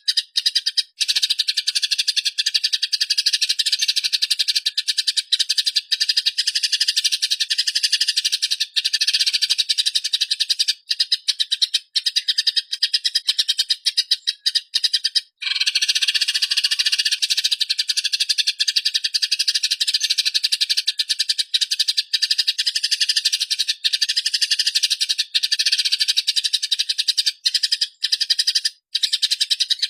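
Eurasian tree sparrows (burung gereja) chirping rapidly and without pause in a dense, rolling stream of harsh calls, the excited chatter of sparrows squabbling. There is one brief break about halfway through.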